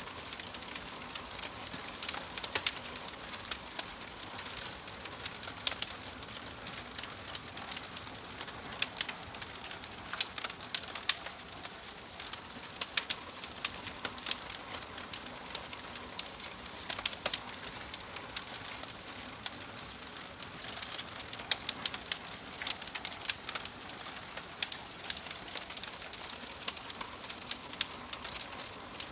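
Wood fire crackling in a fireplace: a steady soft hiss with sharp pops at irregular moments throughout.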